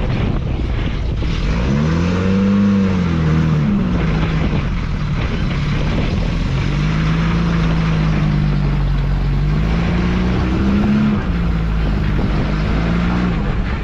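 Engine of a 1986 Toyota pickup working at low speed as it crawls over rocks, revving up about two seconds in, easing off, and rising again near the end, over a steady rough rushing noise.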